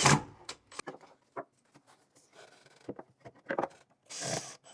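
Wooden sauna cover panels being handled and fitted: a short scrape at the start, then scattered wood knocks and clicks, and a brief rub near the end.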